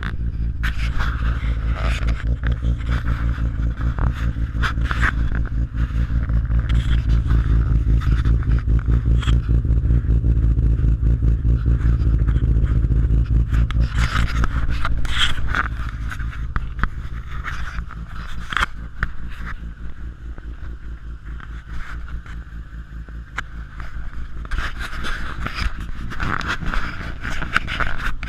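BMW S50B32 3.2-litre straight-six running through a B&B catback exhaust, a steady low pulsing drone. It gets louder after a few seconds and drops back to a lower, quieter note about halfway through.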